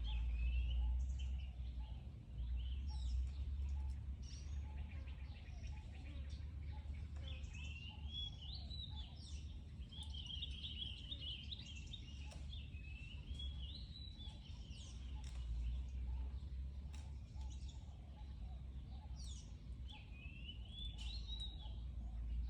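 Outdoor ambience: many short, high chirping calls, densest through the middle and again near the end, over a steady low rumble.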